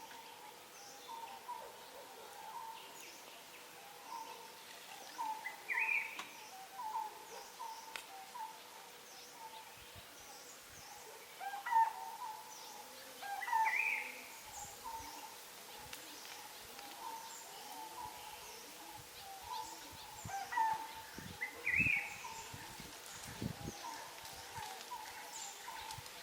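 Wild birds singing: a steady run of short, low hooting notes about one a second, with a louder rising phrase from another bird roughly every eight seconds and faint high chirps behind.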